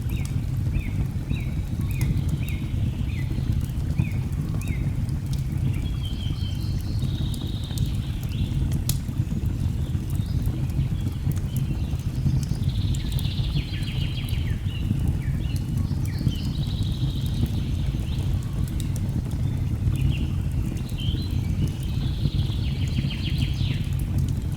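Nature ambience mix: a steady low rush of a waterfall under crackling fire, with birds singing over it. In the first five seconds a bird gives a run of about eight short falling whistles, about two a second; after that come several bursts of chattering song.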